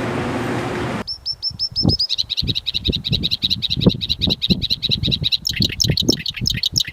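A bird trilling: a fast run of short, high chirps, roughly ten a second, that starts about a second in and turns into quick downward-sweeping notes near the end, with scattered low thumps underneath.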